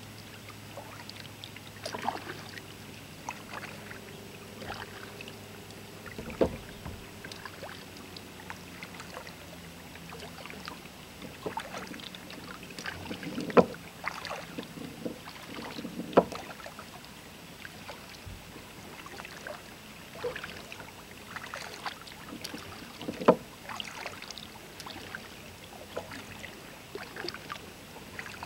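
Kayak paddling: the paddle dips and splashes in the water in irregular strokes, with a few sharp knocks standing out above the water sounds. A faint low steady hum fades out during the first half.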